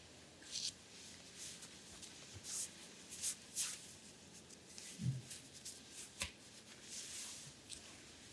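Hands sliding and rubbing over oiled skin in an abdominal massage: soft, repeated swishes of uneven length, with an occasional dull thump.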